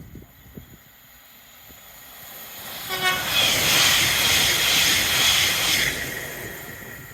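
A train passes through the station at speed: its rushing noise swells over a few seconds, peaks, then fades away. A brief horn note sounds about three seconds in, as the train draws level.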